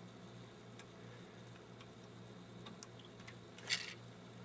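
A small wire connector snapping into its socket on an LCD monitor's circuit board: one sharp click near the end, with a few faint ticks of handling before it.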